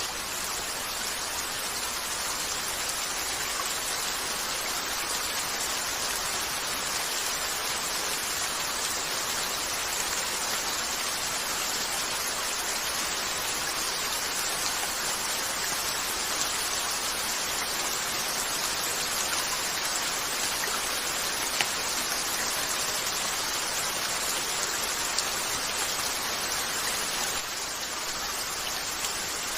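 Steady rain falling on a window, an even dense hiss, with two faint sharp clicks late on.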